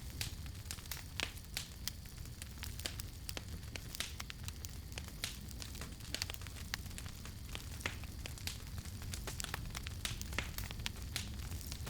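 Wood campfire crackling: frequent sharp pops and snaps over a steady low rumble of burning.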